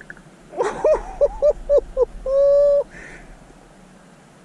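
A bird calling: about six quick short calls, then one longer held call.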